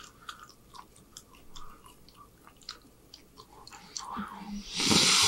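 A person chewing a mouthful of food close to the microphone, with soft wet mouth clicks, then a loud breath out near the end.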